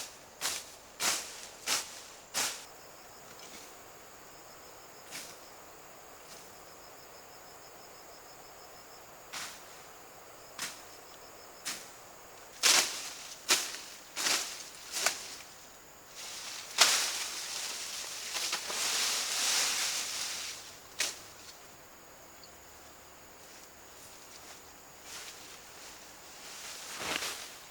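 Footsteps in short runs of quick steps, with a longer rustling swell in the second half, over a steady high insect drone and, for a few seconds early on, a rapidly pulsing insect chirp.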